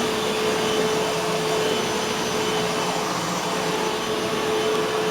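Eureka Boss Smartvac 4870 upright vacuum cleaner running steadily, its motor giving a constant whine over the rush of suction.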